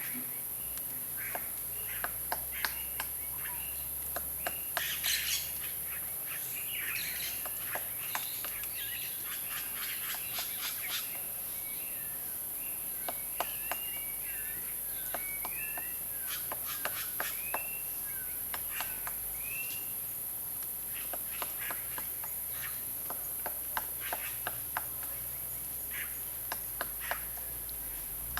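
Birds calling: scattered sharp, short notes throughout, and a run of quick curved chirps in the middle, over a steady high hiss.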